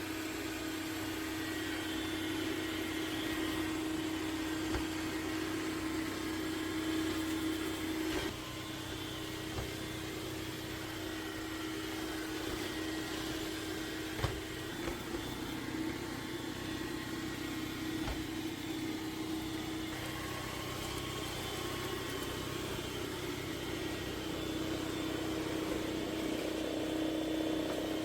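MOVA P10 Pro Ultra robot vacuum-mop running with a steady motor hum, broken by a few brief clicks and knocks.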